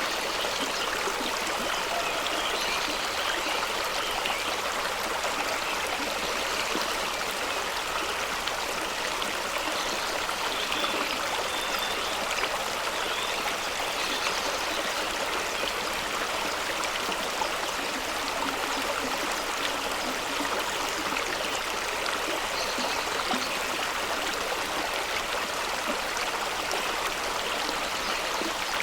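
Fast-running stream rushing and splashing over rocks, a steady even rush of water with no letup.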